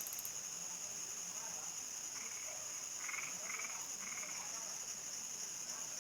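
Steady, even trilling of a nighttime cricket and insect chorus. From about two seconds in, frogs give several short croaking calls, each with a fine rapid pulse, over the top of it.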